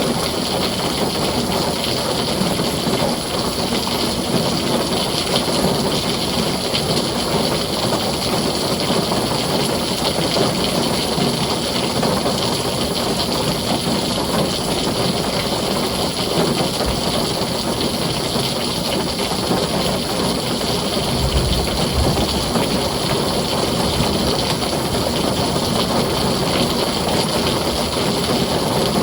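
Heavy rain drumming steadily on a tin roof, with a short low rumble about two-thirds of the way through.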